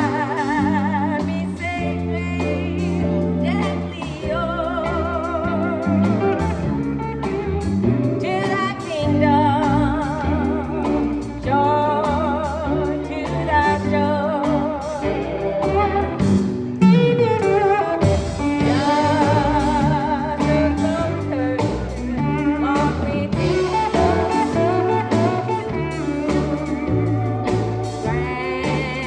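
Live sacred steel gospel band playing: a wavering, vibrato-laden melody line of singing and steel guitar over a steady bass and drums, with a sliding glide in pitch about 17 seconds in.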